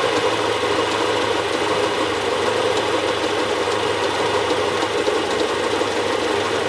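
Saab 900i 8-valve four-cylinder engine idling low and steady after a cold start, its rpm sagged toward stalling: a cold-idle fault that lets the engine die about 20 seconds after starting.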